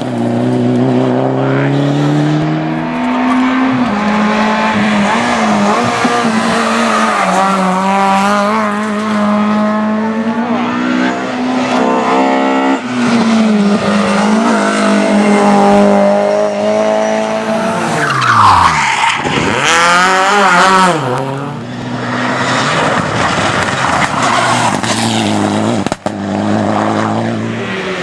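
Rally car engine at full throttle, the pitch climbing through the revs and dropping at each gear change, with tyres squealing and skidding on the stage. About two-thirds through the engine note falls sharply and then climbs again.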